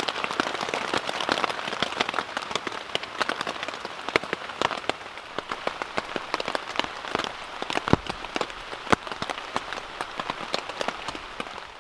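Rain pattering on a tent and tarp: a dense, steady stream of individual drop hits, with a few louder drops standing out.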